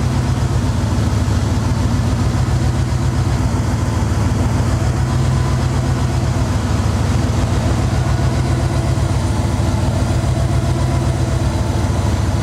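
1994 Dodge Ram pickup's 5.2-litre V8 idling steadily.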